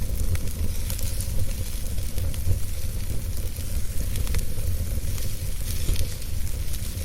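Wood fire burning in a fireplace: a steady low rumble and hiss with frequent small crackles and pops scattered throughout.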